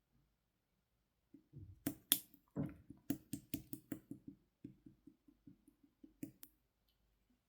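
Slime being squeezed and pressed by hand, making a quick run of wet clicks and pops, about four a second, that starts about a second and a half in and stops near the end.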